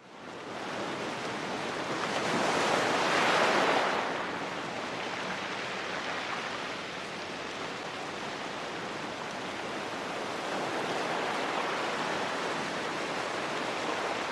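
Steady rushing noise that swells louder about two to four seconds in, then settles.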